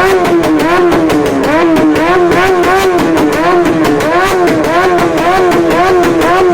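Motorcycle engine being revved in quick, regular throttle blips, the pitch rising and falling about twice a second.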